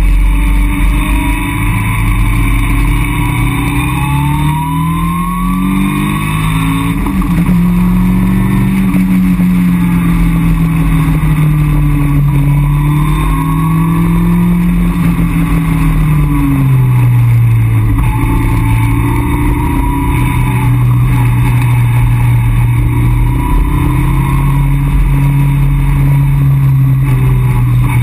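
Caterham Roadsport 175's four-cylinder engine heard from inside the open cockpit while driving, over steady wind and road noise. The revs climb over the first several seconds and hold, fall away about two-thirds of the way through, then run steadier and lower with a small rise near the end.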